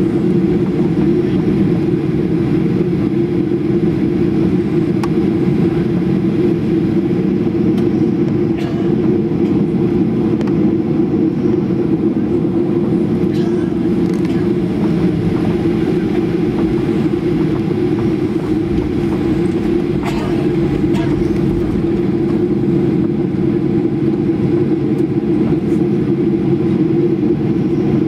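Steady cabin noise inside a Ryanair Boeing 737-800 on the ground after landing, its engines at idle as it taxis, with a constant low hum from the engines and air conditioning.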